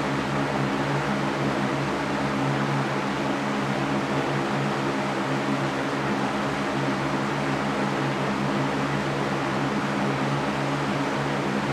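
Electric fan running steadily: an even whooshing hiss with a low, steady motor hum underneath.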